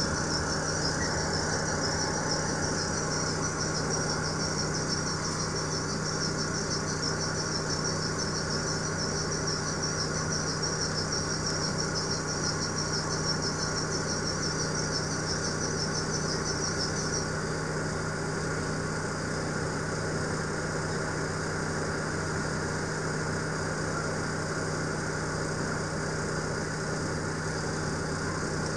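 Double-stack intermodal freight train rolling past, heard through a window: a steady low hum and rumble of the cars, with a high wavering squeal that stops about seventeen seconds in.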